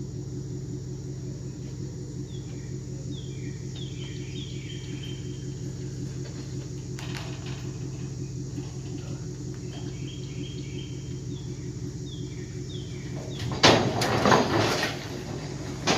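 A vehicle engine idling steadily, with birds chirping in short falling calls twice, and a loud rustling, clattering burst of noise about three-quarters of the way through.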